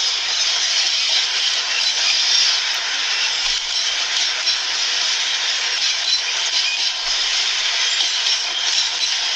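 Freight train of empty wagons rolling along the track, a steady rushing noise with no clear pitch.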